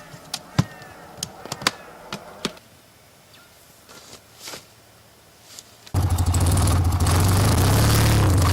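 A few scattered clicks and knocks against a quiet background. About six seconds in, a motorcycle engine comes in suddenly and loudly, running steadily with a deep, even hum.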